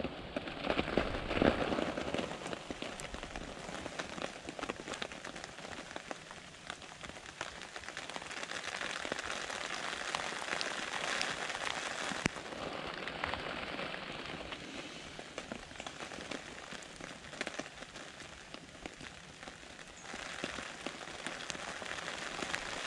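Steady rain falling on the fabric roof of a pop-up hunting ground blind, heard from inside: a dense hiss made of many small drop taps.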